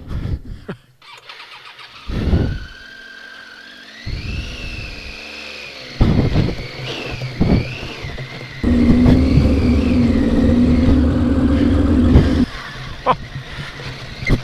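Adventure motorcycle engine working up a loose rocky track, the revs rising and falling unevenly. It drops almost to nothing about a second in, then picks up again, and runs loud and steady for a few seconds near the end.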